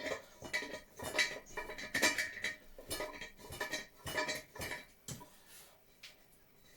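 Metal tools and small metal parts clinking and clattering in a quick, irregular run, with short metallic rings, as a motorcycle is being dismantled; the clatter thins out to a few clicks after about five seconds.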